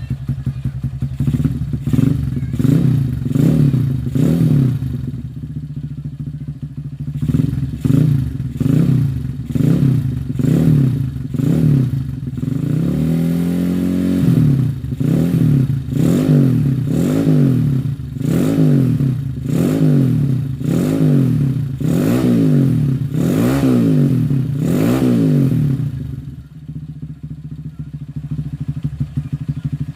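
Motorcycle fitted with an aftermarket JMF exhaust, its throttle blipped over and over so the engine note rises and falls about once or twice a second, with one longer rev about halfway through. Near the end it settles back to a steady idle.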